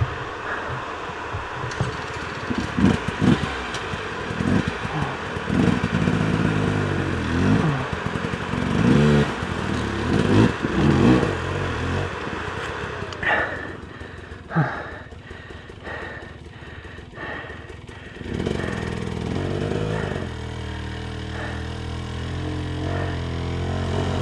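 Dirt bike engine revving up and down in repeated bursts. About halfway through it drops to a lower, quieter level with scattered clattering knocks, then picks back up into a steadier run about three-quarters of the way in.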